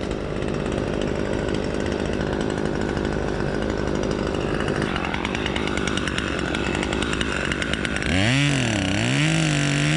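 Gas chainsaw running. About eight seconds in it gets louder and its pitch swings up and down, then holds at high revs.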